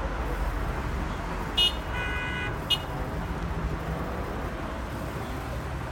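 Two short vehicle horn toots, about a second apart, over a steady low rumble of traffic and the fire.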